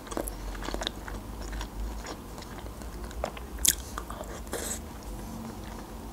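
A person biting into a slice of fresh tomato and chewing. Scattered short clicks and smacks of the mouth, the sharpest just before the middle and a little after.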